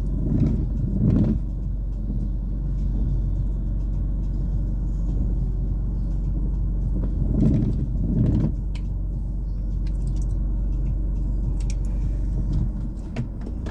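Steady low rumble of a car driving, engine and tyre noise heard from inside the cabin, swelling briefly twice.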